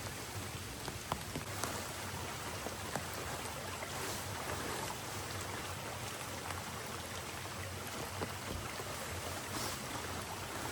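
Heavy rain falling steadily, with scattered single drops ticking.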